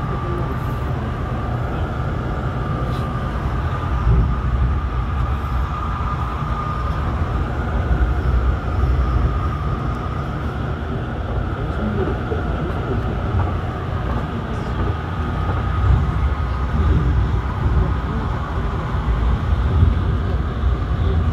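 Inside an Airport Railroad (AREX) all-stop electric commuter train running at speed: a steady low rumble of wheels on track, swelling slightly now and then, with a thin steady whine above it.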